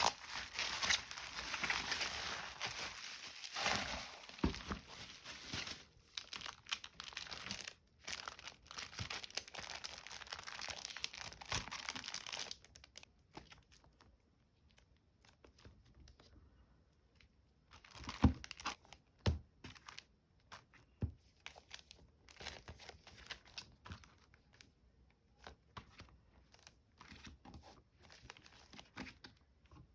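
Packaging being unwrapped by hand: continuous crinkling and tearing for about twelve seconds, then a lull and scattered light taps and rustles.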